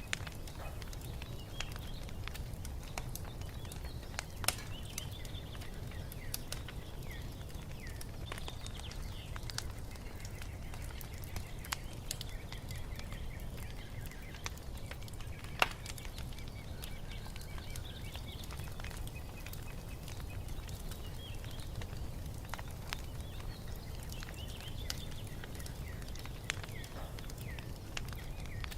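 Wood fire crackling with scattered sharp pops, one louder pop about halfway through, over a low steady rumble. Birds chirp and sing faintly throughout.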